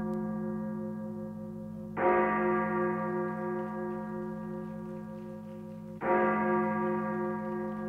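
A low, bell-like chime with a sharp start, about every four seconds. It strikes twice, about two and six seconds in, and each stroke rings on and slowly fades.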